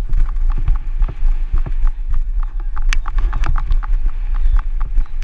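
Rapid, irregular knocks and clatter, several a second, over a steady low rumble.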